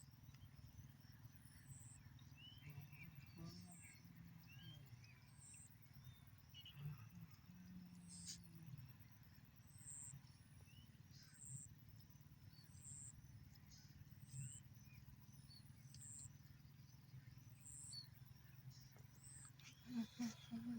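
Faint countryside ambience: a short high chirp repeating about once a second, scattered bird chirps and a steady low hum, with a few louder low calls near the end.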